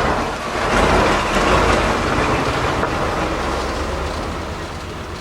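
A heavy truck driving past close by, its diesel engine and tyres loud at first, then fading as it moves away.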